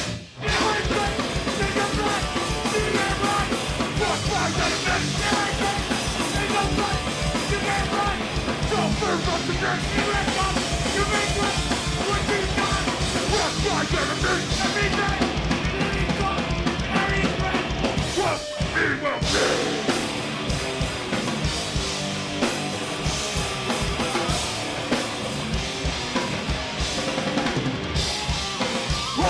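Live heavy punk/metal band playing loud and fast, with a drum kit driving a rapid, steady kick-drum pulse. The music cuts out for a split second at the start and thins briefly about two-thirds of the way through.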